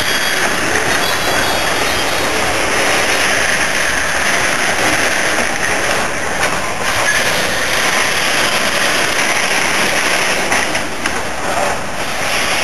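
Coal hopper wagons of a freight train rolling past at speed. Their wheels on the rails make a loud, steady, continuous noise.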